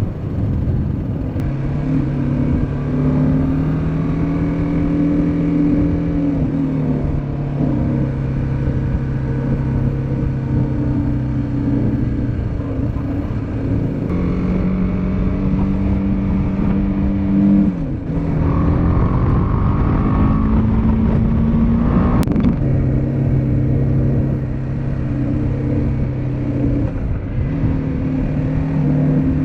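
Motorcycle engine running steadily on the move, its pitch dropping and climbing again in steps several times. About 18 to 22 seconds in, a higher rising tone joins it, ending in a sharp click.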